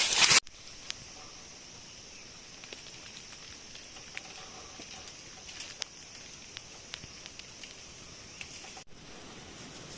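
A loud burst of noise cuts off abruptly in the first half-second. Then comes quiet jungle ambience: a low steady hiss with a faint high hum and scattered small ticks and clicks.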